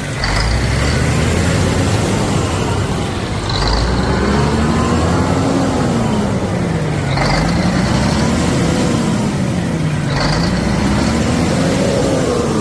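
Vehicle engine running and being revved in slow repeated cycles, its pitch rising and falling about every three seconds, with a short sharp hiss about every three seconds as the revs drop.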